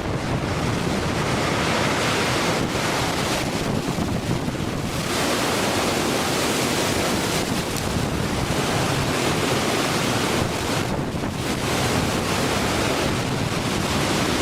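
Storm wind buffeting the microphone over heavy seas, waves breaking and washing across a loaded cargo ship's deck.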